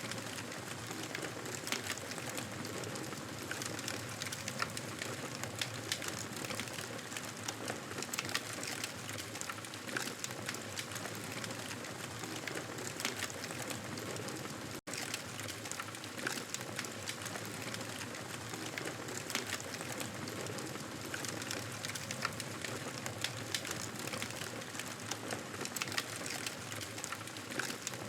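Fireplace crackling: a steady hiss of burning wood with frequent small irregular pops and snaps. The sound cuts out for an instant about halfway through.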